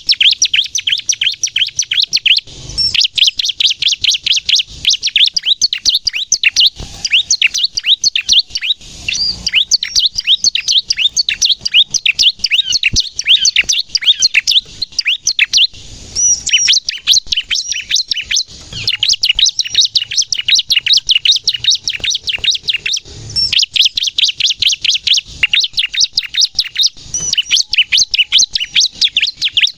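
Bar-winged prinia (ciblek) singing in full, rapid song: a dense stream of high, sharp chirps, many per second, broken by a few short pauses.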